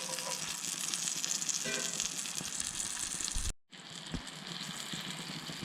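Butter sizzling and spitting steadily in a frying pan as brook trout and battered frog legs fry. The sound cuts out for a moment about two-thirds of the way through, then carries on.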